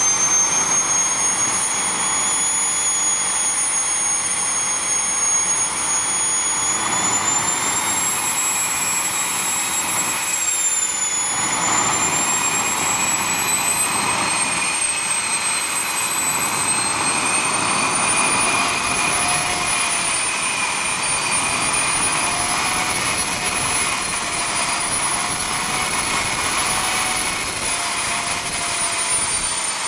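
Small model jet turbine engine running with a high whine over a steady rush of exhaust. The pitch drifts slowly, sagging about eleven seconds in and rising again around eighteen seconds.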